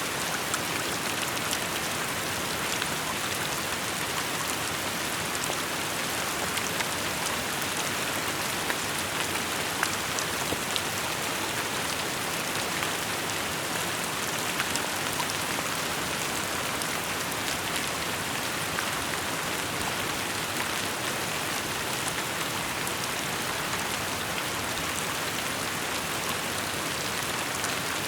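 Steady rainfall, an even hiss with many small drops pattering on surfaces.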